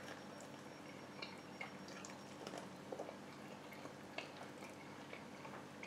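Faint chewing and small wet mouth clicks from a person eating a sticky barbecue-glazed chicken wing, over a faint steady hum.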